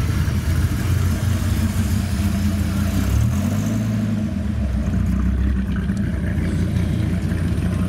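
Dodge Viper V10 engine running at low speed as the car rolls slowly past, the revs rising and falling briefly about three seconds in.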